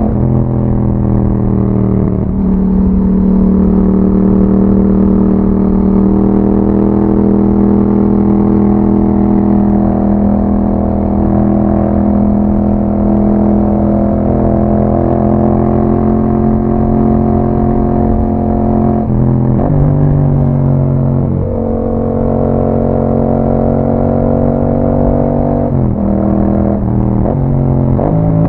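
A 2021 Yamaha MT-07's 689 cc parallel-twin engine running through an Akrapovič exhaust while riding. The engine note drops and rises with speed and breaks at gear changes about two seconds in, about two-thirds of the way through, and twice near the end, then climbs as the bike accelerates again.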